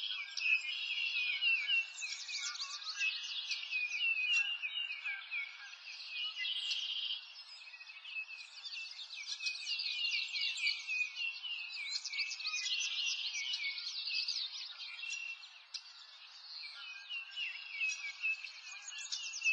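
Several small birds chirping together: a dense, continuous stream of quick high notes with a faint hiss beneath.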